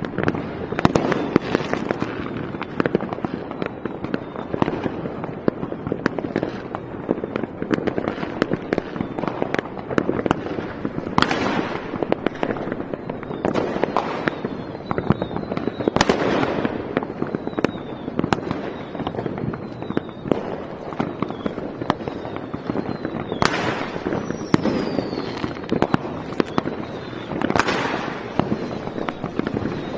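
A fireworks display going off in a dense, continuous crackle of many overlapping bangs and pops. Several louder bangs stand out every few seconds, and there are faint falling whistles.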